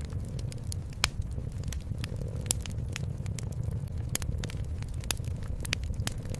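Fireplace crackling: irregular sharp pops and snaps, several a second, a few louder ones about one and two and a half seconds in, over a steady low rumble.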